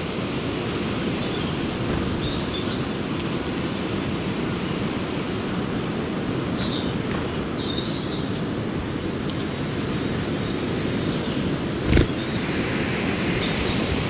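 Scattered short, high bird chirps and calls over a steady low outdoor noise. A single sharp knock sounds about twelve seconds in.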